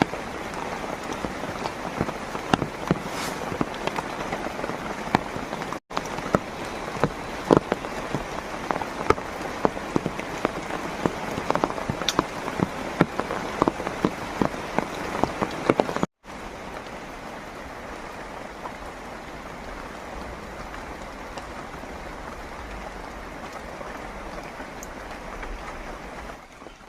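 Heavy rain falling steadily, with many loud separate drops striking a close surface. It cuts out briefly twice; after the second break the rain goes on softer and smoother, with few sharp drops.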